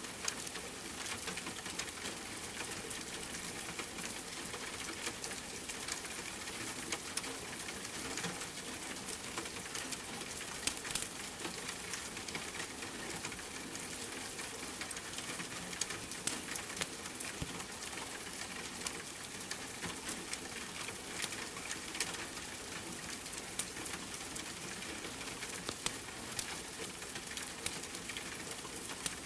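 Steady rain mixed with the scattered sharp crackles and pops of a wood fire in a fireplace.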